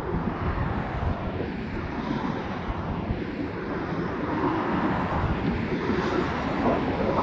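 Airplane engine noise from a passing aircraft, mixed with steady wind buffeting the microphone.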